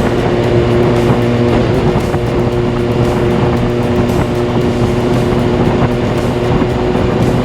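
Kawasaki Ninja ZX-6R inline-four with a carbon fibre Delkevic exhaust running at steady revs while riding, under wind and road noise.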